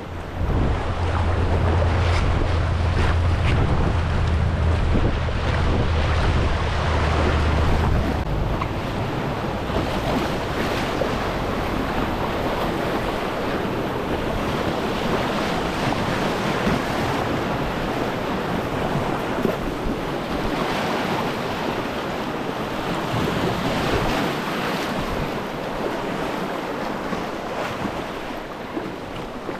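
Steady rush of whitewater river rapids. Wind buffets the microphone for the first eight seconds or so, as a low rumble under the water noise.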